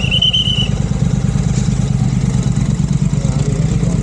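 Royal Enfield Continental GT 650's parallel-twin engine running steadily at low revs through aftermarket Red Rooster exhausts, a fast even pulse.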